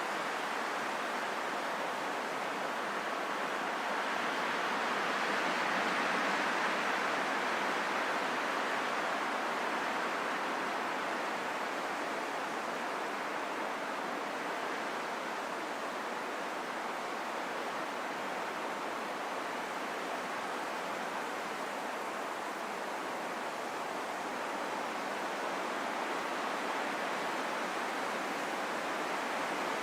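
Steady rushing wind that swells gently about six seconds in and then eases off.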